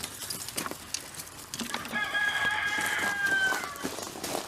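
A rooster crowing once, a single long crow of about two seconds that starts about two seconds in and drops slightly at the end. Faint scattered clicks sound underneath.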